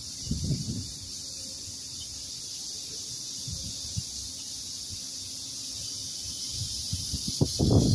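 Cicadas droning in a steady, high-pitched chorus. Low irregular bumps come just after the start and louder ones near the end.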